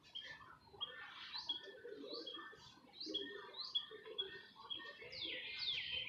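Songbirds chirping: a run of short, high, rising chirps repeated over and over, with louder downward-sweeping calls near the end.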